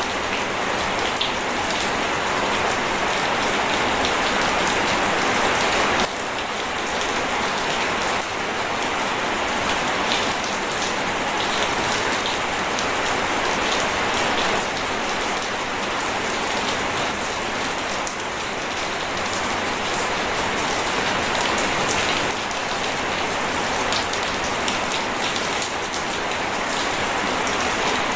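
Rain falling steadily, an even hiss of drops with no thunder. The texture and level shift abruptly a few times.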